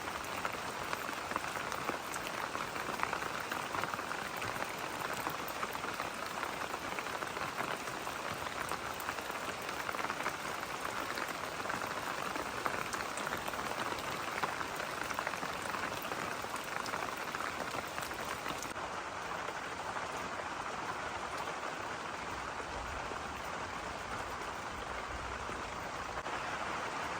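Steady rain falling, a continuous hiss dotted with the patter of individual drops. About two-thirds of the way through, the hiss turns slightly softer and duller.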